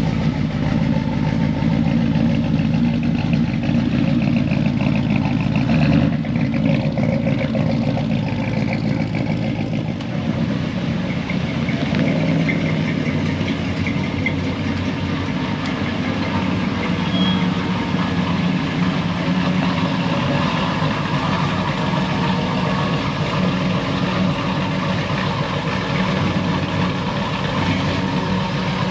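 Pickup truck engines running steadily at idle.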